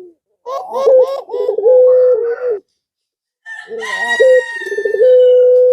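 Male pelung turtle dove (puter) cooing twice: each call is a quick run of short coos ending in a long held note. A higher, drawn-out, slowly falling call from another bird overlaps the second coo.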